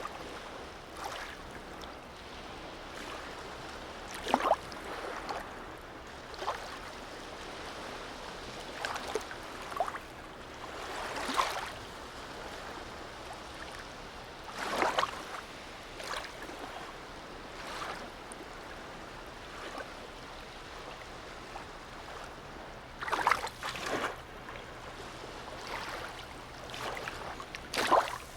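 Sea water lapping in a harbour: a steady low wash broken by irregular small splashes every few seconds, a few of them louder.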